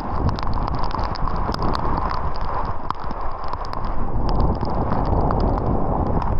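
Heavy rain falling in forest, a dense steady wash with many separate drops ticking sharply close by.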